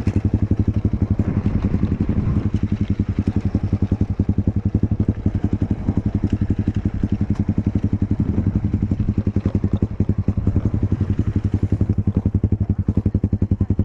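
Enduro motorcycle engine running steadily at low revs with an even pulsing beat.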